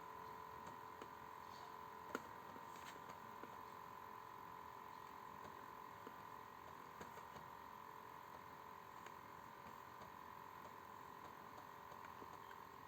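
Near silence: room tone with a faint steady high hum and a few faint scattered clicks, one a little more distinct about two seconds in.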